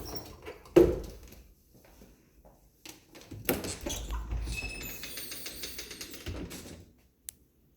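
A door being handled: a sharp knock about a second in, then about three seconds of rattling with a quick run of clicks, like a door rolling on its track.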